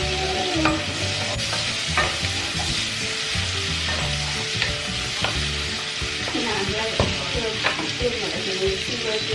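Prawns sizzling as they fry in oil in a pan, with a spatula stirring them and ticking against the pan now and then.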